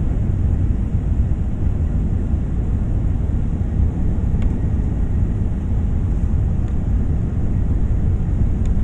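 Airliner noise: a steady, low rumble of engines and rushing air that holds even throughout.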